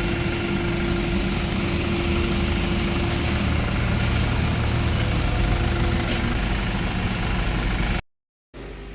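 Nissan Patrol's ZD30 3.0-litre four-cylinder turbo-diesel idling steadily, with a few faint clicks over it; the sound cuts off abruptly about eight seconds in.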